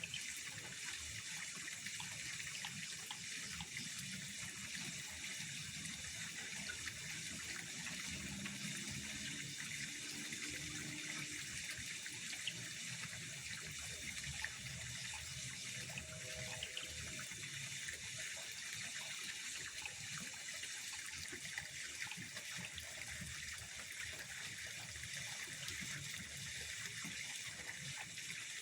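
Steady pond water sound: an even, unbroken hiss with a few faint ticks.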